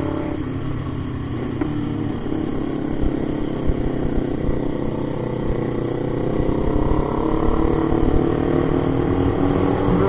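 Motorcycle engine running under way, its pitch climbing and growing louder from about halfway through as the bike accelerates.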